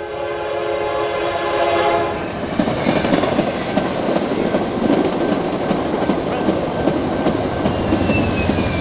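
Amtrak Cascades Talgo passenger train sounding its horn, a steady chord for about two seconds. Then it passes close by with loud, continuous wheel-on-rail rumble and rapid clicks from the short Talgo cars rolling over the track.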